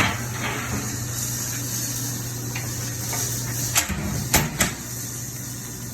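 Three sharp metal knocks, about four seconds in, from the smoker's removable steel reverse-flow plates being handled, over a steady low hum.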